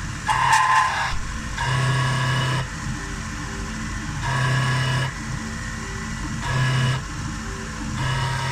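A home-built CNC milling machine running a program: its stepper-driven axes move in short, irregular bursts of about a second, each with a steady whine, over a continuous machine hum.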